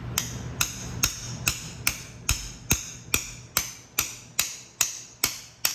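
Hammer blows, fourteen evenly spaced strikes at a bit over two a second, each with a short metallic ring. This is the bread trick, in which packed bread is hammered into a bore to force a pressed-in part out of the engine.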